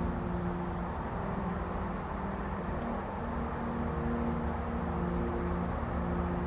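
A vehicle engine running steadily with a low rumble and a droning hum that shifts slightly in pitch.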